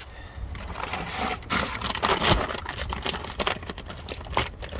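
Irregular crinkling and crackling of a paper charcoal bag.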